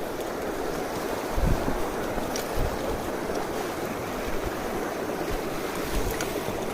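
Mountain stream water rushing steadily, with a few brief low thumps.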